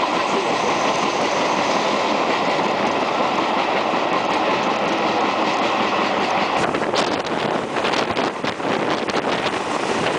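Passenger train running on the metre-gauge line, heard at an open window: a steady rush of wheel-and-rail noise and air. About two-thirds of the way in it turns choppy, with many quick irregular crackles.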